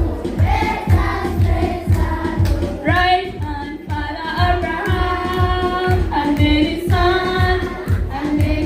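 A children's choir singing together, with a steady low beat of about two strokes a second underneath.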